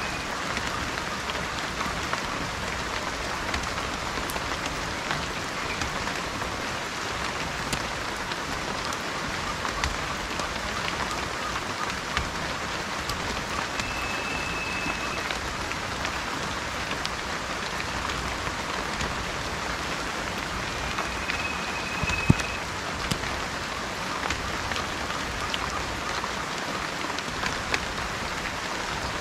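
Steady rain falling, with a few short high bird notes and one sharp drip-like tap about two-thirds of the way through.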